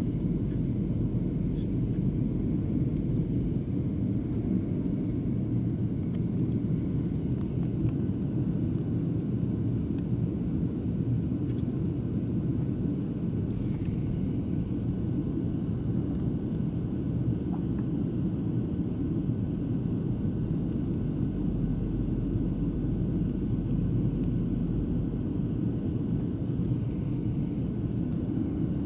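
Steady low drone of an airliner's engines and airflow heard inside the passenger cabin in flight.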